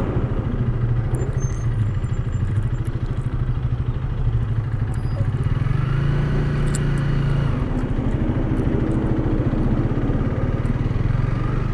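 Honda Rebel 300's single-cylinder engine running at low road speed. Its pitch rises briefly about six seconds in, then settles again.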